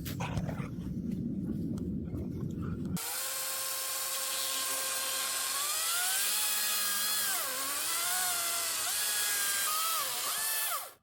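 Power drill running with a steady whine, its pitch sagging and recovering several times as it is loaded, as when boring into wood. It cuts off abruptly. Before the drill starts, about three seconds in, there is a low rumble with knocks.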